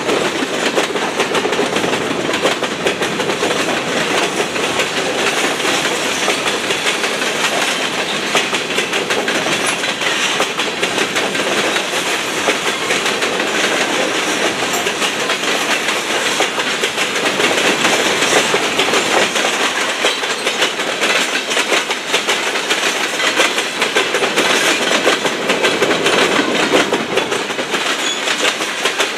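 Freight train tank cars and covered hopper cars rolling past: a steady rush of steel wheels on rail with dense clickety-clack.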